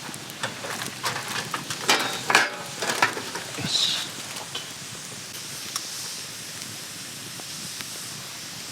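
Campfire crackling over a steady hiss, with a run of sharp clicks and knocks in the first few seconds.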